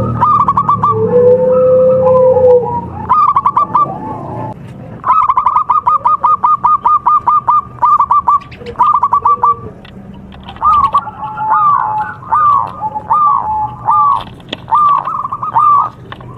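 Zebra doves (perkutut) cooing: fast runs of short, clipped notes, then slower rolling two-part coos in the second half. A steady lower note is held briefly about a second in.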